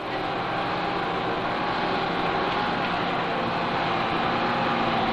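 The engine and machinery of a floating swamp dredger running steadily, a constant drone with a steady hum and a higher whine held over it.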